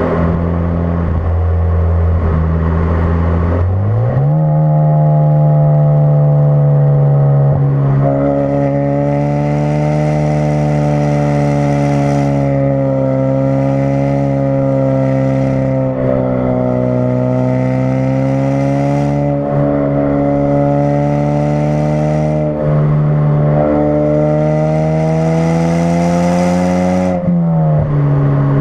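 2016 Ford Focus RS's turbocharged 2.3-litre four-cylinder running through a custom-fabricated exhaust. The engine note steps up in pitch about four seconds in and holds fairly steady, rising and dipping slightly, with a hiss coming and going above it, then drops back down near the end.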